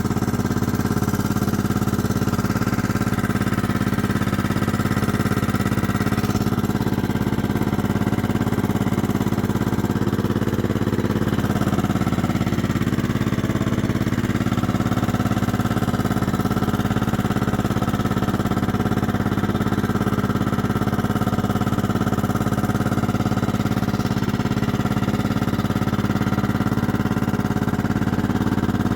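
1998 Kohler Command 16 hp lawn mower engine idling steadily on a cold run after a year parked. It runs kind of clanky, as it does when cold or after sitting.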